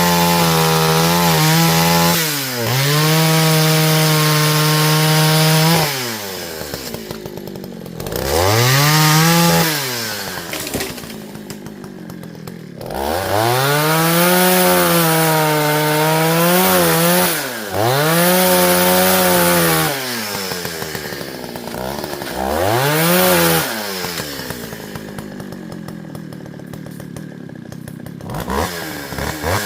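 Two-stroke chainsaw engine revved repeatedly, held at high revs for a few seconds at a time and then dropped back to idle, five or so times, with a couple of short throttle blips at a low idle near the end.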